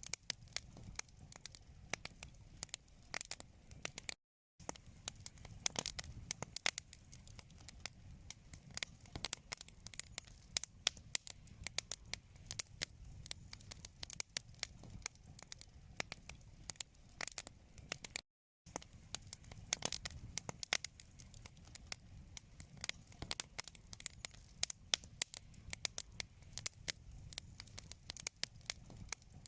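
Wood fire in a fireplace crackling, with many irregular sharp pops and snaps over a low rumble of flames. The sound cuts out completely for a moment twice, about four seconds in and again about eighteen seconds in.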